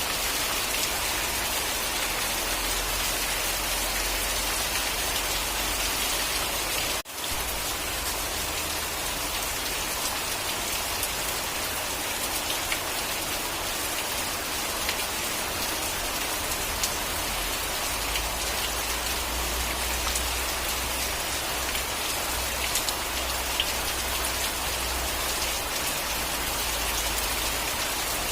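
Steady rainfall with scattered individual drop ticks. It cuts out for an instant about seven seconds in.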